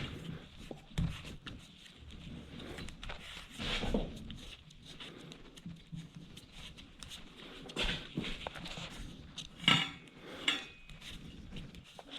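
Scattered light knocks and metallic clinks of things being handled and set down, with two sharper clanks about ten seconds in.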